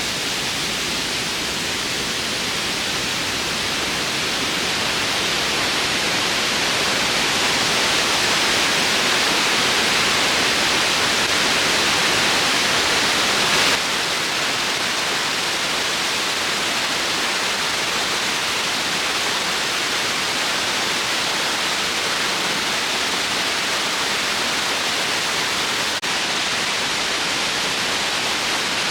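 Waterfall cascading: a loud, steady rush of falling water. It swells slowly, then drops abruptly to a slightly lower level about fourteen seconds in.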